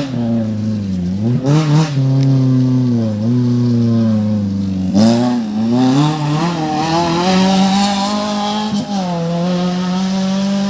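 Off-road race car engine revving hard, its pitch climbing and dropping again several times as the driver accelerates, shifts and lifts off through the course.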